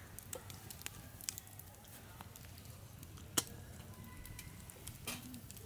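Campfire crackling: scattered sharp pops of burning wood, one louder pop about three and a half seconds in.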